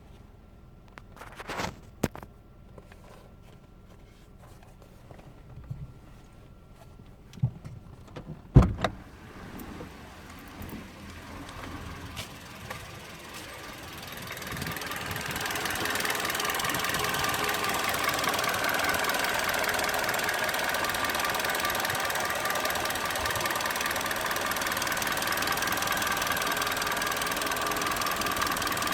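A few sharp clicks and one loud thump, then a 2010 Toyota Yaris engine running, building up over a couple of seconds past the middle and then holding steady. The engine has a misfire.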